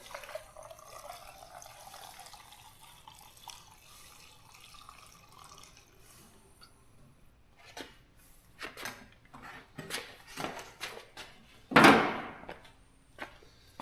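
Gear oil being hand-pumped from a bottle into the fill hole of a truck's AAM 11.5 rear differential: a faint liquid gurgle for the first several seconds, then a run of sharp clicks and knocks from the pump, the loudest about twelve seconds in.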